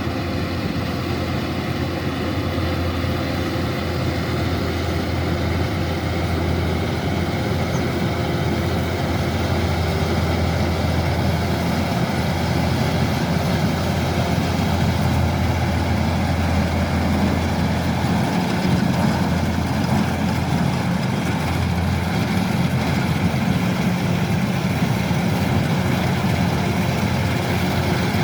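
Kubota DC-105X combine harvester running steadily with a low diesel engine note and machinery noise, getting a little louder partway through.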